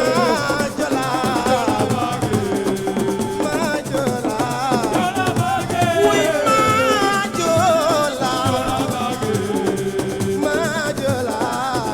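Assiko band music: percussion with a shaker rattling and a voice singing over it.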